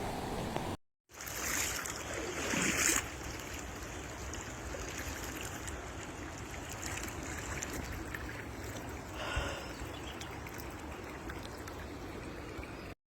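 Steady rush of water running in a flooded street, with louder swishes about two seconds in and again near the end, broken by a brief dropout about a second in.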